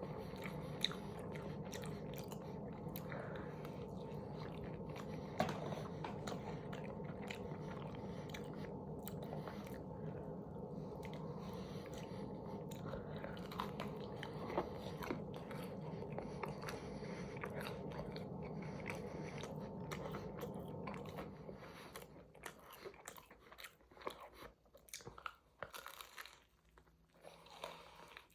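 Close-up chewing and biting of bone-in chicken wings, with crunches and wet mouth clicks scattered throughout. A steady low background hum underneath stops about three quarters of the way through.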